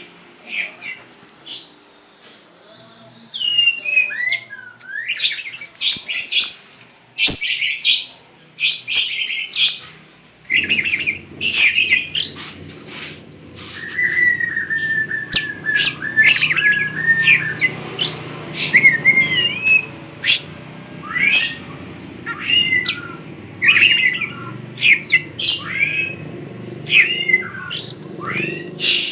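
A pet bird singing a busy run of quick chirps, whistles and falling notes, with one longer held note partway through. A low steady hum comes in about a third of the way in.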